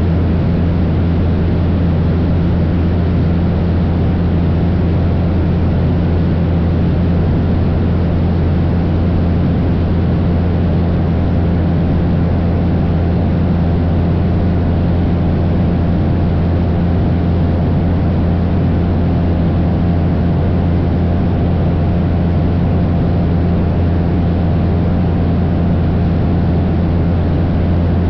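Cessna 172 light airplane's piston engine and propeller droning steadily at cruise power, a constant low hum with no change in pitch.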